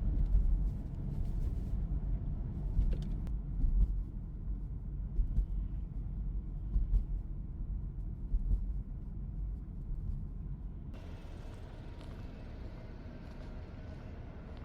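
Wind buffeting the microphone in a snowstorm: a low, uneven rumble rising and falling in gusts, easing somewhat toward the end.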